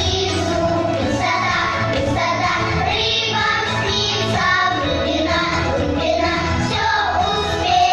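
A child singing a song over musical accompaniment.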